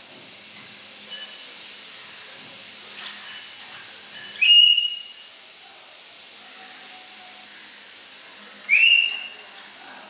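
A caged pet bird gives two loud whistled calls about four seconds apart, each a quick rising sweep that levels off and holds briefly, over a steady hiss.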